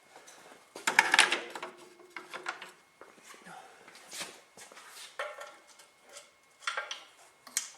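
Metal hand tools clinking and rattling, with a louder clatter about a second in and scattered lighter knocks after it.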